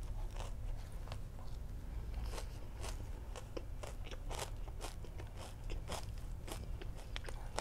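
Close-miked chewing of a crispy batter-fried sausage (Korean-style corn dog): irregular crunches, roughly two a second, over a low steady hum.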